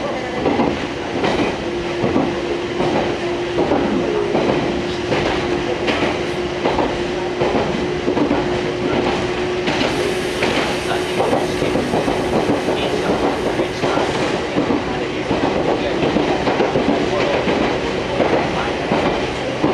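Fukui Railway Fukubu Line electric train running, its wheels clacking over rail joints, with a steady hum held through most of the stretch. A rise in hiss from about ten to fourteen seconds in matches another railcar passing close alongside.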